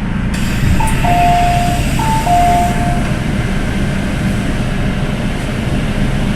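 Steady low rumble of an MTR M-Train car standing at a station, with an electronic two-note descending chime (high note then lower note) sounding twice about one and two seconds in. A hiss of air or door noise rises just after the start.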